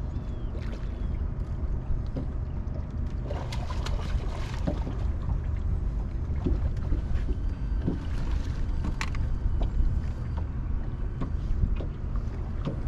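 Steady low rumble of wind and water around a fishing boat on the river, with scattered light knocks and clicks.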